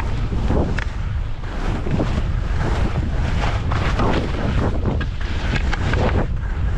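Heavy wind buffeting the microphone while skiing downhill, with repeated hissing swishes of skis turning through snow.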